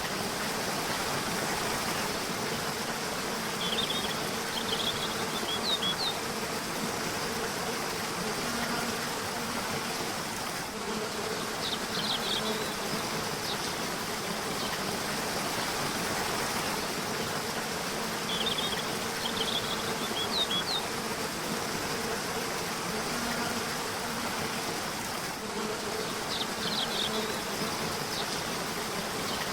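Steady rush of a river, with four groups of quick, high bird chirps spaced several seconds apart and a low insect buzz that comes and goes.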